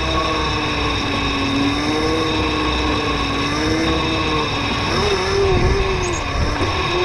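Mini bike motor running while riding along a dirt trail, its pitch rising and falling with the throttle, with some rumble underneath.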